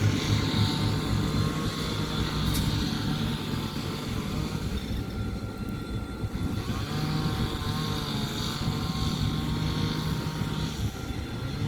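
Diesel engines of a set of 81 and 82 class diesel-electric freight locomotives running with a steady low drone as the train moves.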